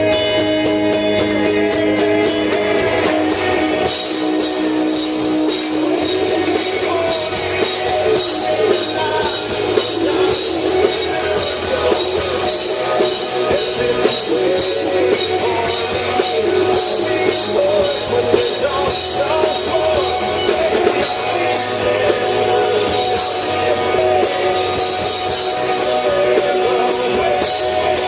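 A live rock band playing a song, with a wavering lead melody over a full, steady band sound.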